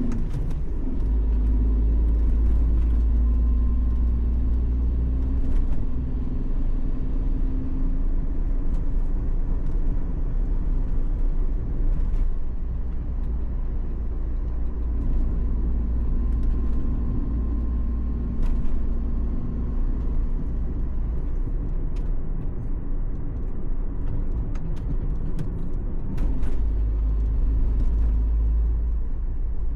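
Steady low rumble of a motor vehicle running, with a faint hum that slowly wavers in pitch and a few light clicks.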